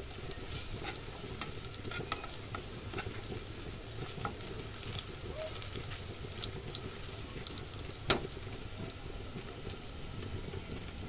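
Chopped garlic frying in oil in a small saucepan: a steady sizzle with small crackling pops, and a spoon stirring and tapping against the pan in the first few seconds. One sharp click about eight seconds in is the loudest sound.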